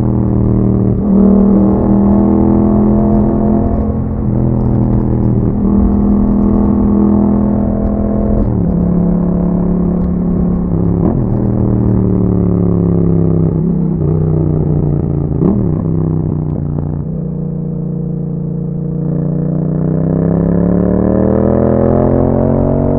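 Yamaha MT-07's 689 cc parallel-twin engine running through an Akrapovic exhaust under riding: pitch climbs and drops several times as it pulls through the gears, sits lower and steadier for a couple of seconds past the middle, then rises again as it accelerates near the end.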